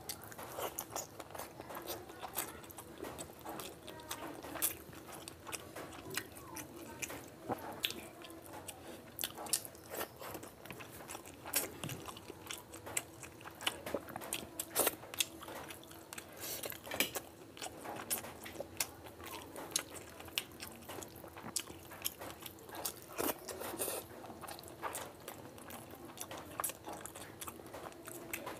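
A person chewing and biting mouthfuls of chicken and fish curry with rice right at the microphone: wet mouth clicks and smacks, irregular, several a second. A faint steady hum runs underneath.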